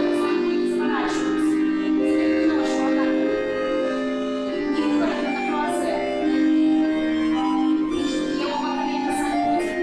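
Live accordion accompaniment: a slow tune played in long held chords that change about once a second.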